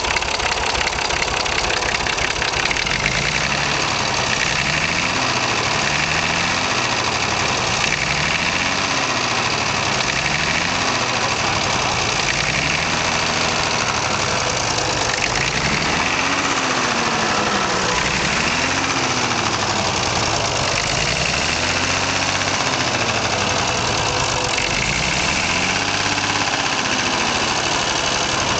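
Perkins P6 six-cylinder diesel engine of a Fordson E27N tractor running under way, its note rising and falling again and again.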